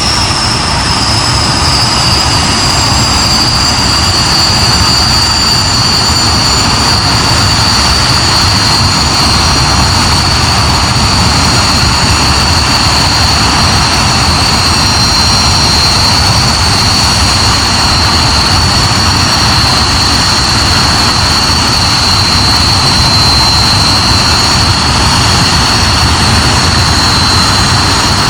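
Hawker Hunter's Rolls-Royce Avon turbojet running steadily on the ground: a loud jet rush with a high compressor whine that drops a little in pitch over the first few seconds, then holds level.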